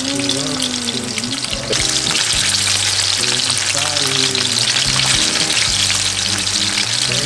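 Food sizzling and frying in a hot pan, the sizzle getting louder about a second and a half in.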